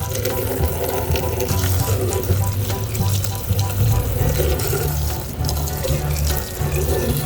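Water running and splashing, over background music with a repeating bass line.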